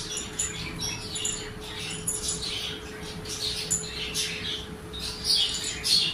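Small birds chirping in a quick, irregular series of short high calls, over a steady hum.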